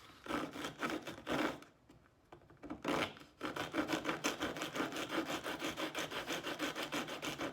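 Coarse wood rasp worked back and forth across a rough-cut notch in a piece of 2x4 lumber, whittling the notch down to depth. A short run of strokes, a pause about two seconds in, then a steady run of quick strokes.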